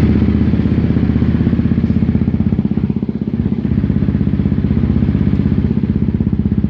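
Honda CRF250L's single-cylinder engine idling with a fast, even pulse, its level dipping briefly about three seconds in.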